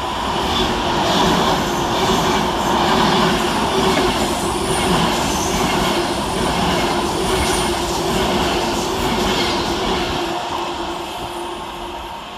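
Class 390 Pendolino electric train running past: a steady hum over the rush of wheels on rail, fading near the end.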